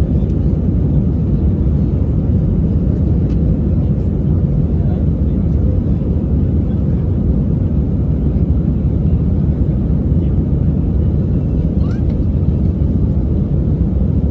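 Steady low rumble of an Airbus A320-200's engines and rushing air heard from inside the passenger cabin, holding an even level throughout.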